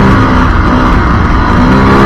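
Yamaha WR450F dirt bike's single-cylinder four-stroke engine running hard under way. The revs ease off just after the start and climb again near the end.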